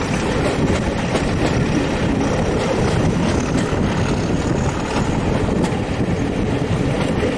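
Diesel-hauled passenger train running along the line, heard from an open carriage window: a steady, loud rush of wheels on rail and air, with a few faint clicks from the track.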